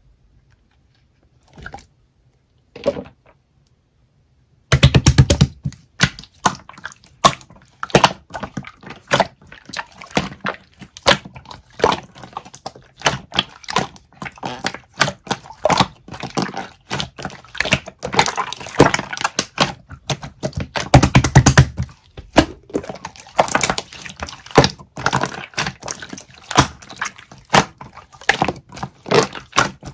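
Pink pearl slime being squeezed and poked by hand, making a rapid, uneven run of wet clicks and pops that starts about five seconds in, after a few faint sounds.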